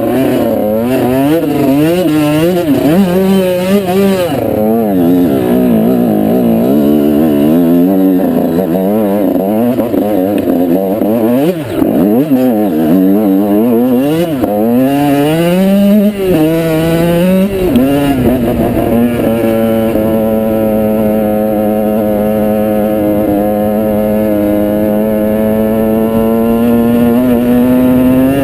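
Off-road motorbike engine, close up, revving up and down unevenly for the first two-thirds. It then settles into a steady run, its pitch creeping slowly higher near the end.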